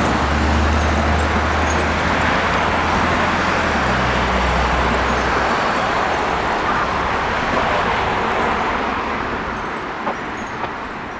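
Heavy vehicle engine and road noise: a deep engine drone that drops away about halfway through, leaving a steady rush of traffic that slowly fades as the vehicle moves off.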